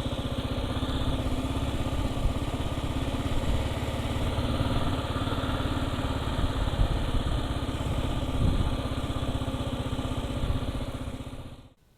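Kawasaki KLR650 single-cylinder four-stroke engine running steadily, with fast even firing pulses. The sound cuts off abruptly near the end.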